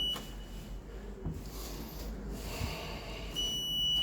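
Electronic beep from the lift car: a short steady high tone that ends just after the start, then a second beep of about a second near the end, followed by a click.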